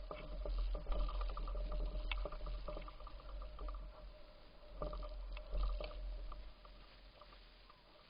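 Bicycle rattling and clicking while being ridden, in irregular clusters of quick clicks, over a low rumble of wind on the microphone.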